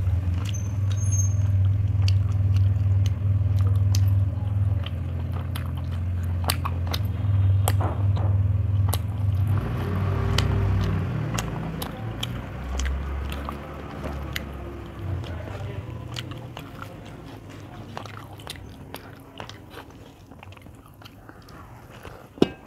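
Close-up eating sounds: chewing and wet mouth clicks as rice and chicken curry are eaten by hand. A loud low rumble runs under the first half and dies away around the middle.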